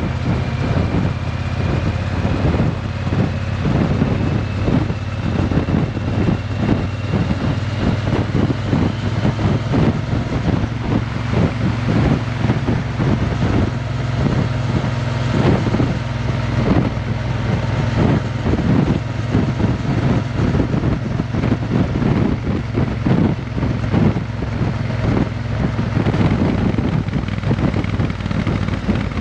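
Triumph Bonneville T120's 1200 cc parallel-twin engine running steadily through a Vance & Hines exhaust, with wind noise on the microphone.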